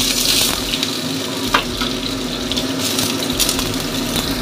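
Sliced onion sizzling in hot oil in a non-stick wok, a steady hiss, with a single light click about a second and a half in.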